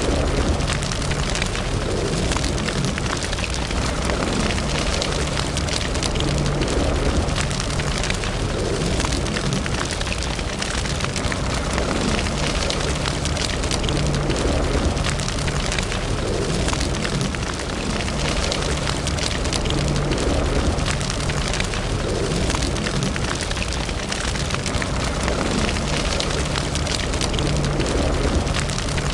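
Wood fire in a fireplace crackling steadily: a dense run of small pops and snaps over a constant hiss and low rumble.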